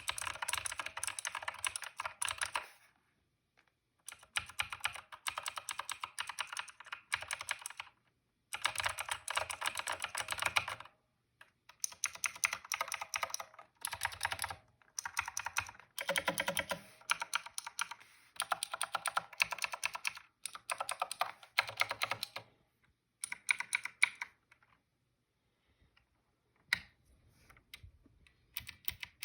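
Typing on Razer Green switches of a Razer BlackWidow Elite mechanical keyboard: fast runs of sharp, clicky keystrokes in bursts of a second or three, with short pauses between them. Near the end the keystrokes come fewer and quieter.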